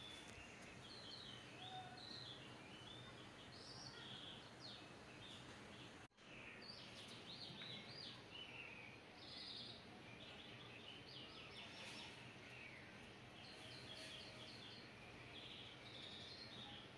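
Faint small birds chirping in many short, quick phrases over a low steady background hiss and hum. The sound drops out briefly about six seconds in.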